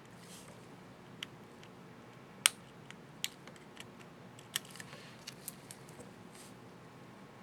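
Small sharp plastic clicks and snaps, about ten, from handling and fitting an HP ProBook 4540s up-arrow keycap and its scissor retainer. One much louder snap comes about two and a half seconds in.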